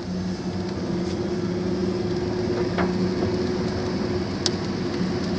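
Car driving, heard from inside the cabin: a steady low engine hum over even road noise, with a couple of faint clicks.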